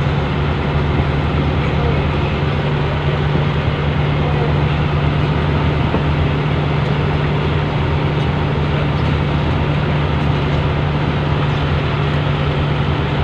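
A fishing boat's engine running steadily, a constant low drone with no change in speed.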